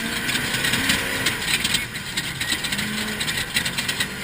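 Off-road vehicle driving over rough ground: dense rattling and clatter over a running engine whose pitch rises and falls now and then.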